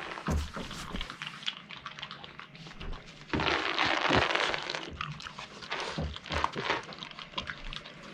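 A Boston terrier making noises while playing with a ball, among many short clicks and knocks, with a louder rough burst about three seconds in that lasts about a second.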